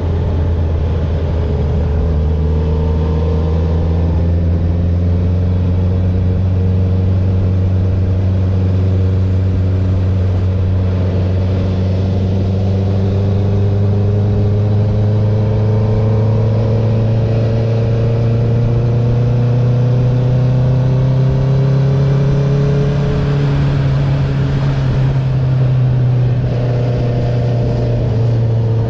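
2021 Honda CB650R inline-four engine running through an Akrapovic titanium full-system exhaust with the dB killer removed, the bike under way. The engine note climbs slowly and steadily for most of the stretch, dips a little near the end, then holds.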